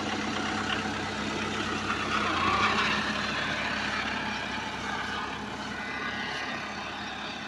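Tata Indigo sedan's engine running at low speed as the car reverses slowly.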